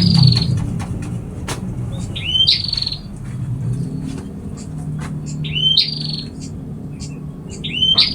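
A small songbird of the kind called burung pipit repeats a short song phrase about every three seconds, four times. Each phrase is a rising whistled note followed by a buzzy trill. Scattered sharp clicks and a low hum sit beneath it.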